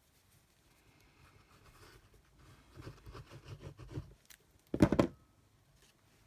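Paper and card being handled on a craft table: soft scratching and rustling for a second or two, then a short cluster of louder knocks about five seconds in.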